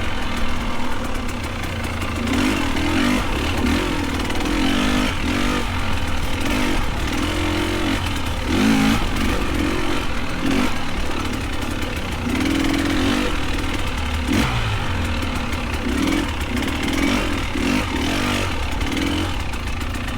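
Dirt bike engines revving up and down as bikes ride past one after another, pitch rising and falling with each throttle change and gear shift.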